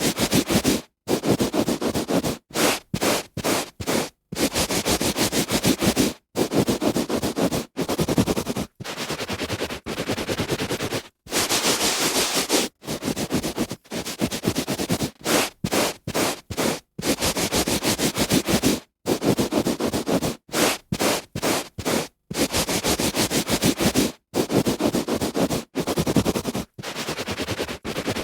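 A hand rubbing back and forth on a carpet, a rough scratchy swish in strokes of varying length with brief pauses between them.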